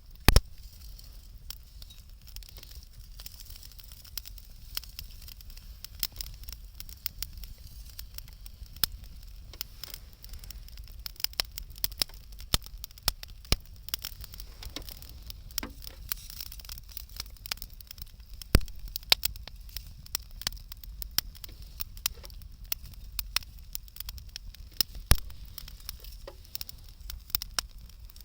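Wood bonfire crackling, with irregular sharp pops and snaps from the burning wood. One loud pop comes right at the start, and the pops grow more frequent in the second half.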